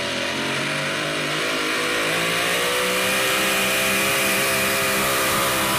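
Super modified four-wheel-drive pulling truck's engine running at high revs during a pull, its pitch holding nearly steady with a slight rise and getting a little louder about two seconds in.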